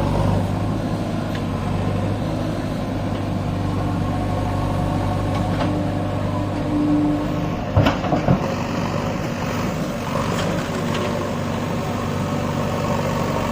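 Diesel engine of a JCB backhoe loader running steadily, with a few sharp knocks about eight seconds in.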